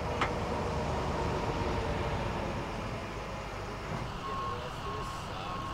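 A vehicle's reversing alarm beeping, three even beeps near the end, over the steady low rumble of running truck engines. A short sharp click sounds just after the start.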